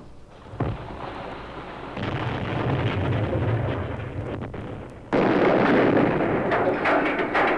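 Harsh noise music of dense rumbling and crackling, explosion-like noise, with a sharp onset a little after half a second and an abrupt jump louder about five seconds in.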